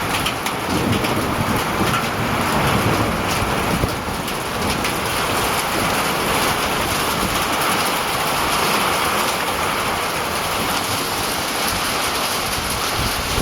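Steady rain falling, a constant hiss of many small drop ticks with a low rumble underneath.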